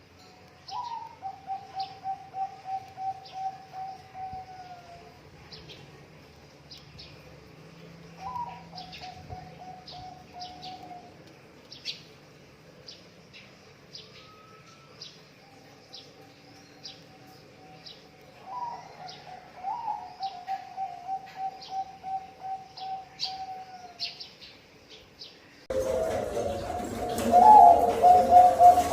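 Zebra dove (perkutut) cooing in repeated phrases. Each phrase is a short rising note followed by a quick string of soft, slightly falling cooing pulses. Short high chirps from small birds run alongside. Near the end the sound cuts abruptly to a louder recording with a loud coo.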